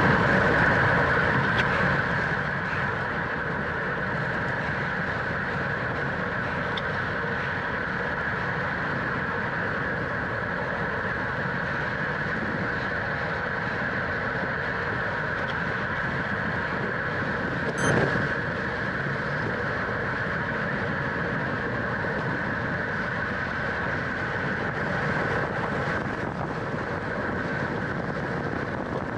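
Steady riding noise of a racing bicycle at speed, wind and tyre and drivetrain hum, with one sharp click partway through.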